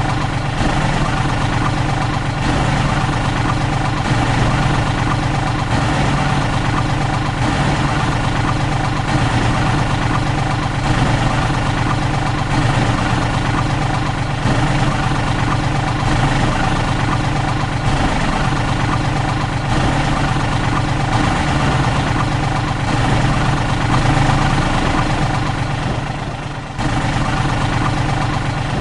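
A heavy vehicle's engine idling steadily, a constant low rumble with a brief dip in level near the end.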